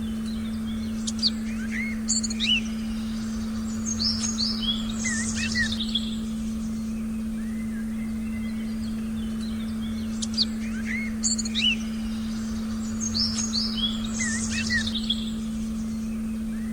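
A steady, low pure tone held without change under a forest recording of small birds chirping in quick clusters. The same birdsong passage comes round again about nine seconds later, as in a loop.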